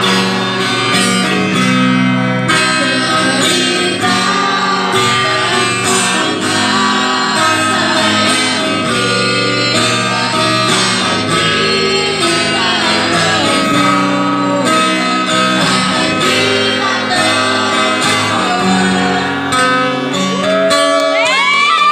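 Music: a slow song sung over acoustic guitar accompaniment.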